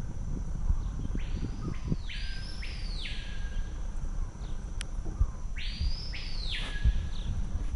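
A bird giving three harsh squawking calls: two back to back about a second in, and one more near six seconds in, over a steady low rumble.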